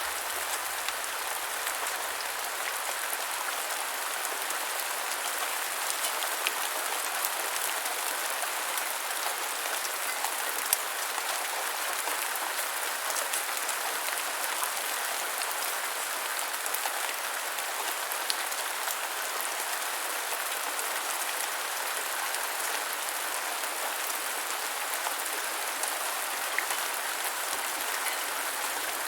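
Steady gentle rainfall, an even hiss of rain with scattered individual drops ticking on surfaces.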